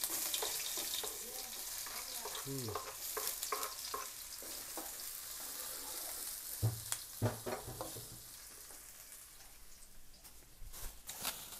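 Chopped shallots, garlic and chilies sizzling in hot oil in a wok, the sizzle loudest at the start and slowly dying down, while a spatula stirs them around the pan. A few knocks of the spatula against the wok come about two-thirds through and again near the end.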